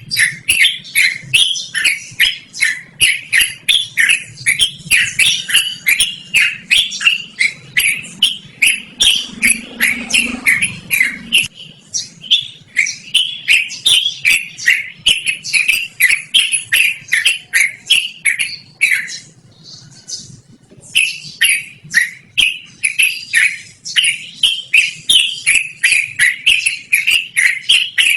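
Yellow-vented bulbul (trucukan) singing a long unbroken run of short, sweeping, loud notes, several a second, with one brief pause about two-thirds of the way through.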